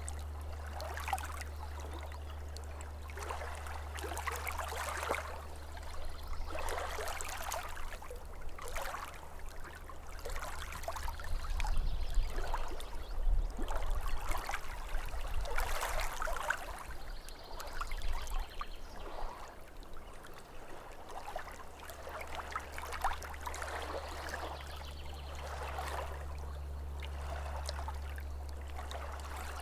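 Small waves lapping at a lake shore, a soft splash and wash every second or two, louder for a few seconds near the middle, over a steady low rumble.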